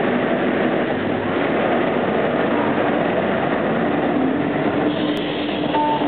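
CNC machine running and cutting with a steady, even noise; a few steady tones come in near the end.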